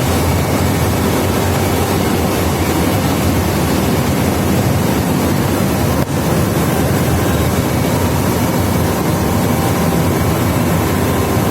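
Steady, loud drone of industrial machinery running, with a brief dip and click about six seconds in.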